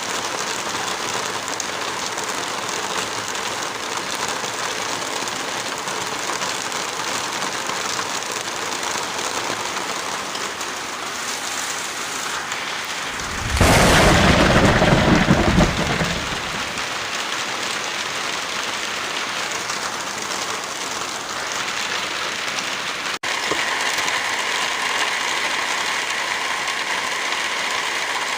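Steady rain falling, with a loud rumble of thunder about halfway through that lasts a couple of seconds and dies away. Near the end the rain sound briefly cuts out and resumes with a slightly different texture.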